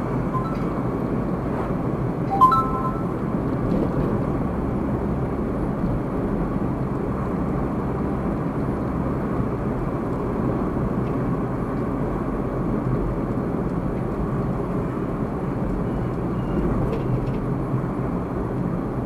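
Steady road and engine noise of a car driving, heard from inside the cabin through a dashcam, with a brief high beep-like blip about two and a half seconds in.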